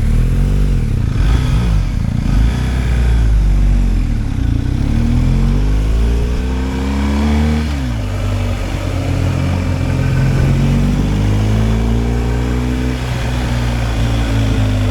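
BMW R 1250 GSA's boxer twin engine under way, its pitch rising and falling with the throttle. About halfway through the pitch drops sharply, then climbs steadily again.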